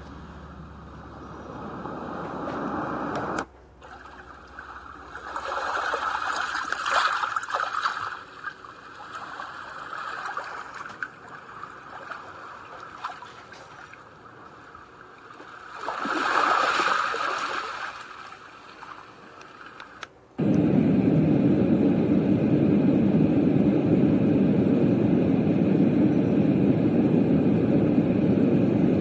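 Small white noise machine speaker (Yogasleep Duet) playing an ocean-surf sound, waves swelling and ebbing. About twenty seconds in it switches abruptly to a steady, deeper rushing noise.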